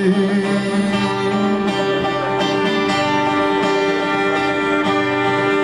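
Acoustic guitar strummed under a violin holding long, steady notes, after the last sung word of a line fades at the very start.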